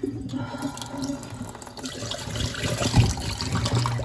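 Kitchen garbage disposal running with tap water pouring into the sink, a steady low motor hum under the noise of the water. The disposal had been jammed by a chunk of glass and has just been freed, so it is spinning again.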